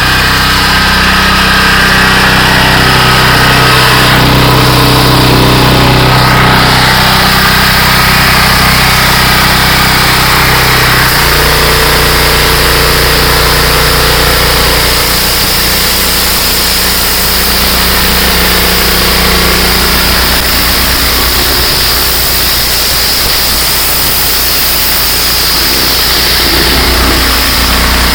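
Shinsho engine-driven high-pressure washer running steadily and loudly; its engine note shifts about eleven seconds in.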